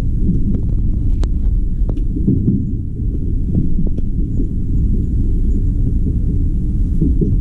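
JR Kyushu limited express train running, heard as a loud, steady low rumble with a few faint clicks in the first few seconds.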